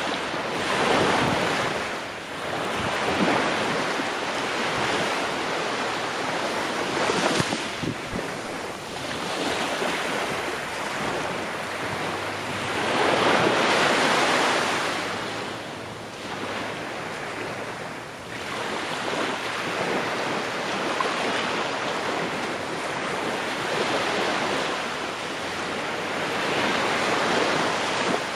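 Ocean waves breaking on a shore, a steady wash of surf that swells and falls back every few seconds, with one especially full swell about halfway through.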